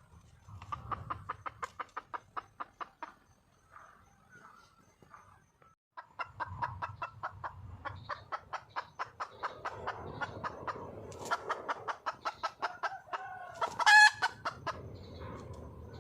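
A junglefowl hen cackling in quick runs of short clucks, about six a second, with a louder drawn-out call near the end. It is a hen calling for a mate.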